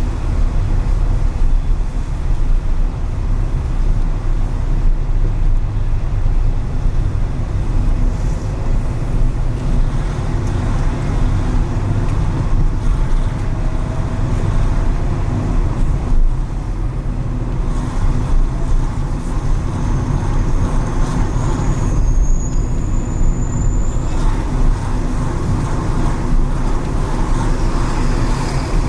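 Car driving through city traffic on rain-wet streets: a steady low rumble of engine and tyres on the road.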